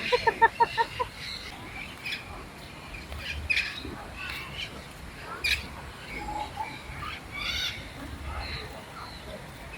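Flamingos calling: a rapid run of pitched honking calls, about six a second, that stops about a second in, followed by scattered shorter, higher bird calls.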